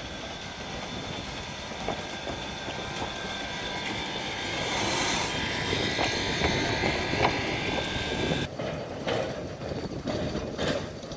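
Narrow-gauge train running, with a rumble, scattered clicks and a steady high-pitched tone that cuts off suddenly about eight and a half seconds in. A short hiss sounds about four and a half seconds in.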